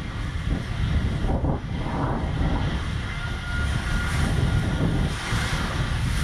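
Inner tube riding down a fiberglass water slide: a steady low rumble with rushing water hissing over it, swelling in a few swishes, and wind buffeting the microphone.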